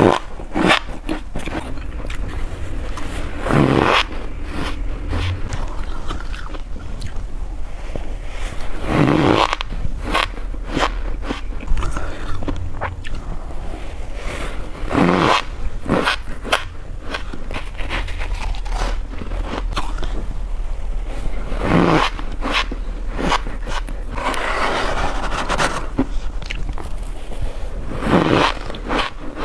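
Freezer frost being bitten and chewed close to the microphone: a big crunching bite every five or six seconds, with smaller crackling chews in between.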